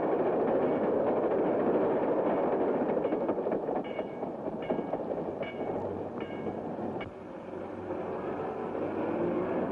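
Train running, a steady dense rumble with four short, evenly spaced high tones in the middle; the sound drops off suddenly about seven seconds in.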